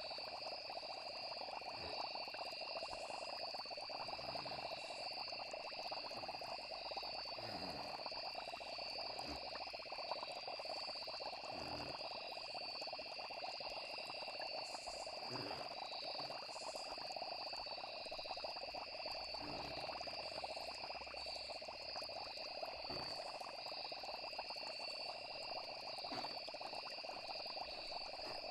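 Night nature ambience: insects trilling steadily, with frogs croaking every few seconds.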